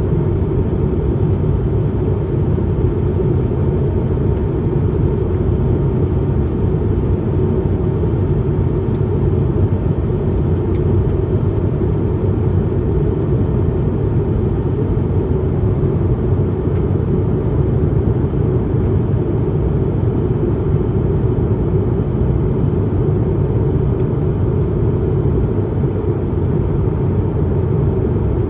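Steady cabin noise of an Airbus A220-300 in climb: an even, deep rumble from its Pratt & Whitney PW1500G geared turbofans and the air rushing past the fuselage, with a faint steady tone above it.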